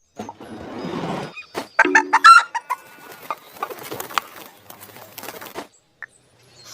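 Chickens clucking and calling, with the loudest pitched calls about two seconds in, followed by a run of short clucks.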